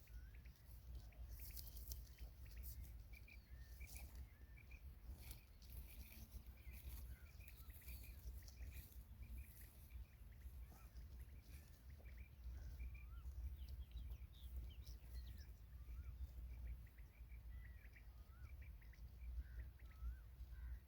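Faint bird calls: many short chirps and small rising and falling whistles, repeated throughout, over a steady low rumble.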